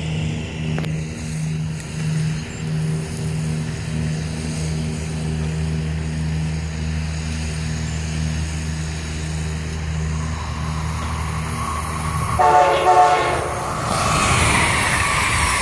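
Amtrak Acela Express high-speed train approaching and passing. A low steady hum gives way to a rising rush, then one short horn blast sounds a few seconds before the end, followed by the loud rush of the train going by at speed.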